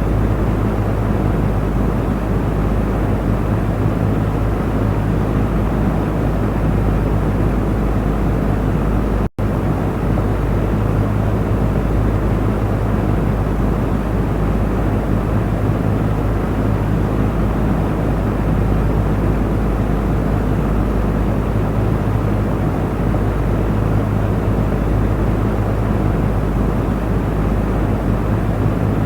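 Electric fan running steadily: an even rush of moving air over a low, steady motor hum. It cuts out for an instant about nine seconds in.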